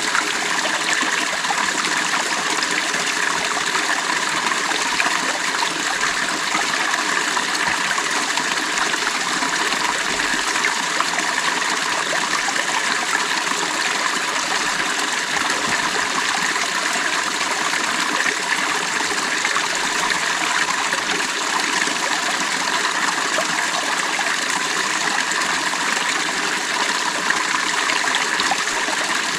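A stream's water running over rocks: a steady, even rush with fine trickling.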